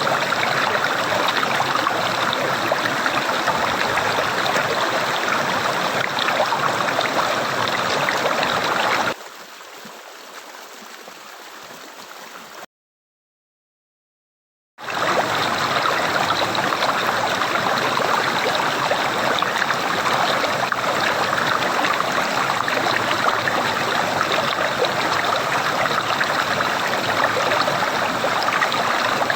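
Water gurgling and rushing steadily, like a small stream. About nine seconds in it drops to a much quieter, thinner water sound. Near the middle it cuts to silence for about two seconds, then the louder gurgling comes back.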